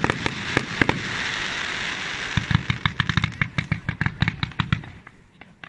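Fireworks going off in a rapid volley: many sharp bangs and crackles with a hissing rush in the first half, the bangs coming thickest in the middle and dying away near the end.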